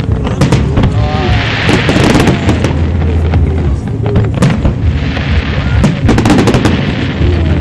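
Aerial fireworks shells bursting in quick succession with repeated sharp bangs. Dense crackling swells up about a second in and again about five seconds in.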